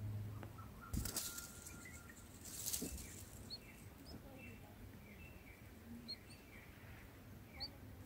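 Red-whiskered bulbul's wings fluttering in two short rushes, about a second in and near three seconds, followed by a string of faint, short, high chirps.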